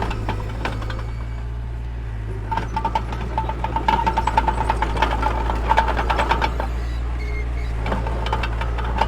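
Mini bulldozer's diesel engine running steadily, with a rapid metallic clatter that grows louder from about two and a half seconds in and eases off after six and a half.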